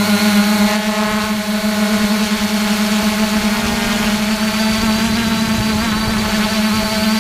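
A 3DR Iris+ quadcopter's brushless motors and propellers humming steadily in flight, the pitch rising slightly about four seconds in.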